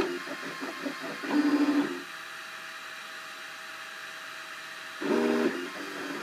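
Cubify 3D printer's stepper motors sounding in pitched tones as the print head moves. A short louder buzz comes about a second and a half in, then a quieter steady hum of several high tones, and another louder buzz near the end.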